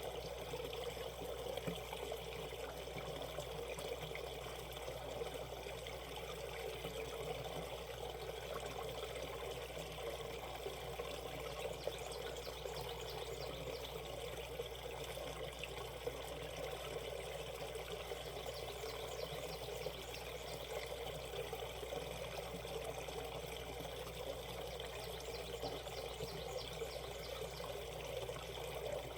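Shallow valley stream flowing steadily, its water rippling and trickling.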